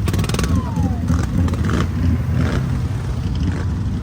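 Low, steady rumble of a motor vehicle's engine running, with a few sharp clatters and a brief falling tone about half a second in.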